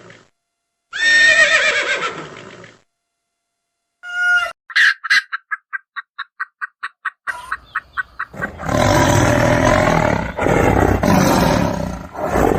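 Several animal calls edited one after another. First comes a pitched call that falls in pitch, then a run of quick, evenly spaced notes, then a long, loud, rough call.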